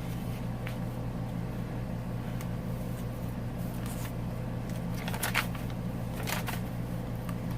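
Paper journal pages and tags being handled, giving a few soft rustles, the clearest about five seconds in, over a steady low hum.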